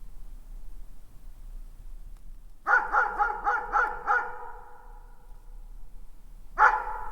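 A dog barking in the distance: a quick run of about six barks, then a single bark a couple of seconds later, each trailing off in an echo.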